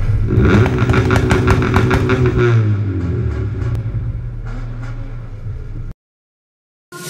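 Car engine revving hard with a rattling crackle. The revs drop away about two and a half seconds in and it runs on lower until it cuts off suddenly. Electronic music starts near the end.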